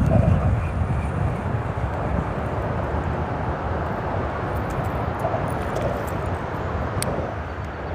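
Steady rumble of freeway traffic on the bridge overhead, a little heavier at the start and easing off slightly toward the end.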